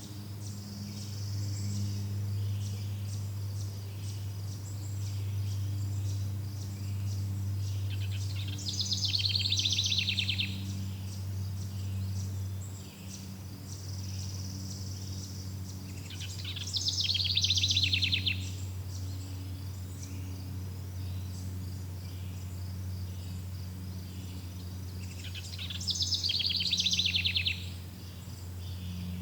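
Forest ambience: crickets chirping steadily, with a loud, high, rapid trill coming three times, about every eight to nine seconds, over a steady low hum.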